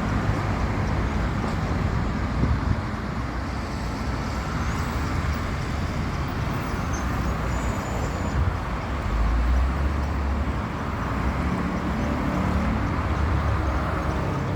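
Steady road traffic noise with a constant low rumble, swelling to a heavier rumble about nine seconds in as a vehicle passes.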